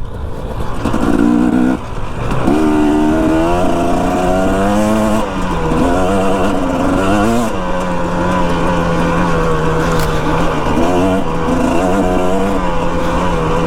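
Dirt bike engine under way while riding: it revs up and drops back a few times in the first half, then holds a steady note for the rest.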